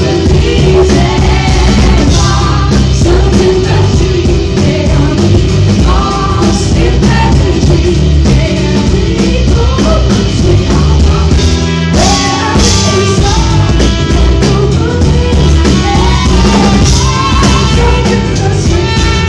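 Live rock band performance with singing, loud and continuous, with a short break in the playing about twelve seconds in.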